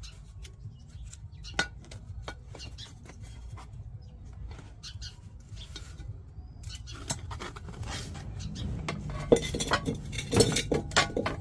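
Hard pieces of a washing machine door clinking and clattering as they are handled: sharp, irregular knocks that come thicker and louder in the last two or three seconds, over a low steady hum.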